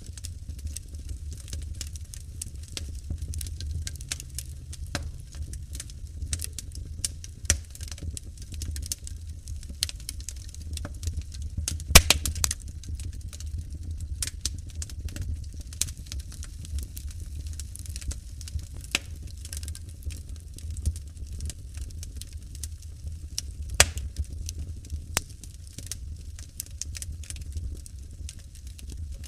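Wood fire burning in a fireplace, crackling with irregular sharp pops over a low steady rumble; the loudest pops come about twelve seconds in and again near the end.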